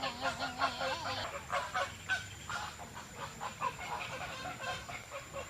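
Honking animal calls with a wavering pitch, breaking after about a second into a quick series of short calls.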